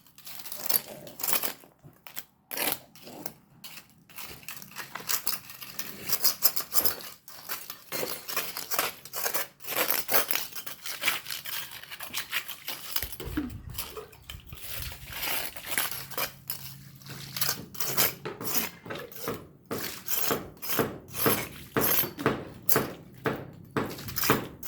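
Rapid, repeated metallic scraping and clinking of a tool against a hard surface, with a low hum joining about halfway through.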